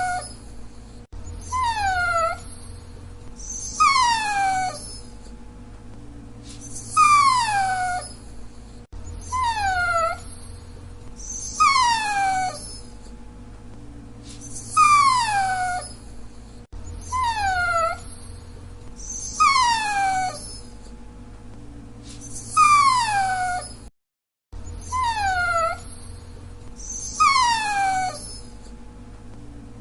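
Dachshund whining: short high-pitched whines, each falling in pitch, repeated about every two seconds.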